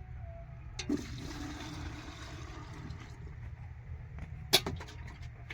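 A tractor engine runs steadily and low underneath. About a second in, a click is followed by about two seconds of rushing, water-like hiss, then a single sharp knock near the end.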